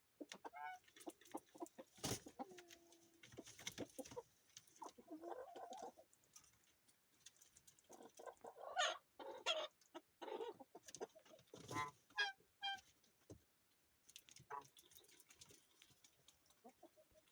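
Chickens clucking in a coop: a run of short calls scattered through, loudest in the middle, with occasional small clicks and knocks between them.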